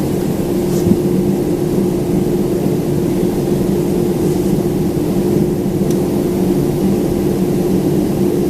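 Steady cabin noise inside a Boeing 767-400ER heard from a passenger seat: a constant low hum with a steady mid-pitched tone.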